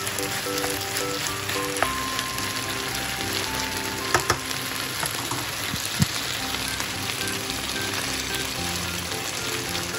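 Beef and bamboo shoot stir-fry sizzling steadily in its sauce in a frying pan, with a few sharp clicks about two, four and six seconds in.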